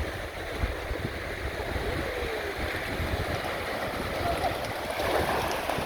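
Wind buffeting the microphone over the steady wash of small waves breaking on the shore.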